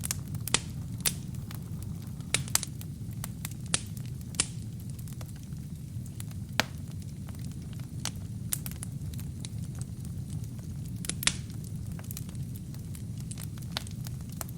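Wood fire burning in a fireplace: irregular sharp crackles and pops from the burning logs, a dozen or so louder snaps scattered through it, over a steady low rumble of the flames.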